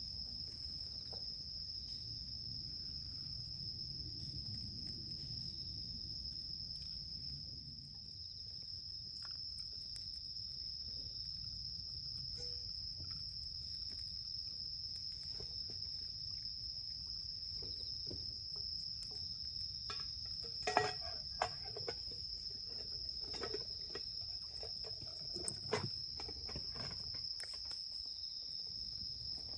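Insects trilling in one continuous high, steady tone. A few short sharp clicks and knocks sound about two-thirds of the way through.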